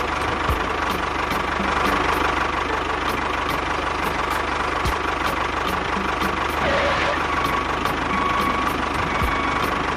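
A small engine idling steadily with a light, regular knock, about three ticks a second, over a steady whine.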